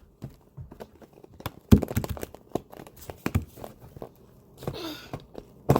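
Close-up chewing of a crunchy jalapeño popper coated in crushed tortilla chips: irregular crunches and crackles.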